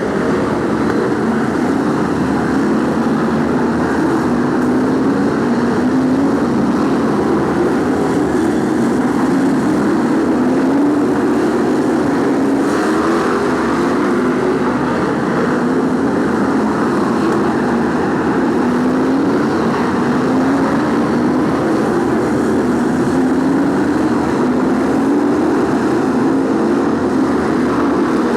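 BriSCA Formula 1 stock cars' V8 engines racing on an oval track, the engine note climbing again and again every couple of seconds as the cars accelerate out of the bends.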